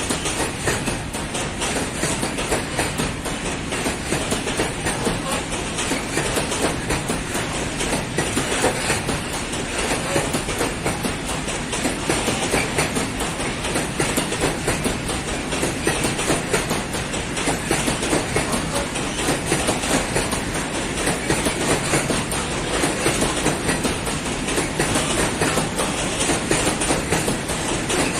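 A long freight train of loaded open coal wagons rolling past at steady speed, its wheels clattering rhythmically over the rail joints.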